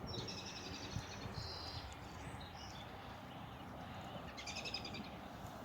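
Songbirds singing: a couple of quick, high phrases in the first two seconds, a few short notes, then a dense phrase near the end, over a low steady background rumble.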